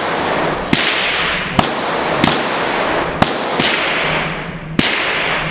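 Handgun shots at a shooting range: five single shots at uneven spacing, each followed by a long echo.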